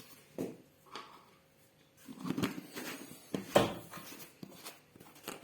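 Light handling noises: a few scattered knocks and rustles, the sharpest about three and a half seconds in.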